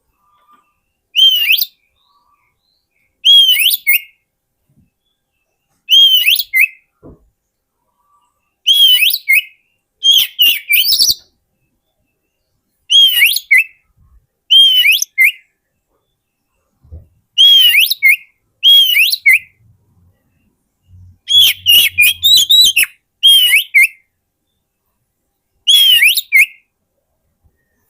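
Oriental magpie-robin (kacer) singing: about a dozen short whistled phrases, each opening with a rising-and-falling note followed by quick higher notes, repeated every two to three seconds with silence between.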